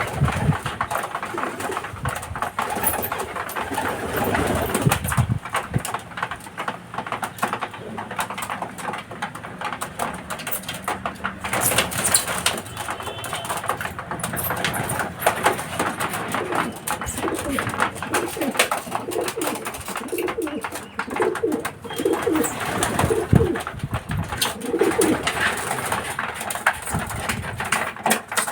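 A flock of domestic racing pigeons cooing in an enclosed loft, over a steady scatter of small clicks and scuffles from the birds moving about. The low cooing is plainest in the second half.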